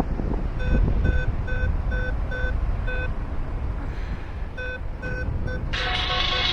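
Paragliding variometer beeping in short, evenly spaced beeps of one pitch, about two a second, which signals that the glider is climbing in lift. The beeps stop for a moment near the middle and then go on, over wind rushing on the microphone. Music comes in near the end.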